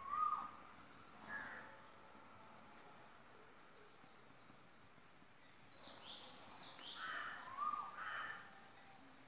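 Birds calling, crows cawing among them: one call right at the start, another about a second later, then a run of several calls from about six to eight seconds in.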